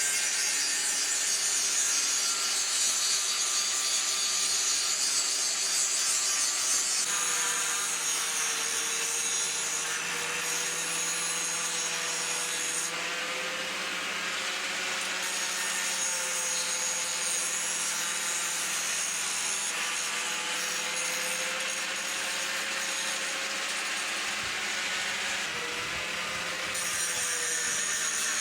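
Angle grinder grinding the bevels into a forged 5160 spring-steel knife blade: a steady abrasive rasp of the disc on steel with a faint wavering motor tone. The sound changes abruptly at a few points.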